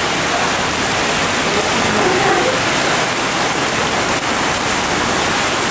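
Heavy tropical downpour: a steady, even rush of rain.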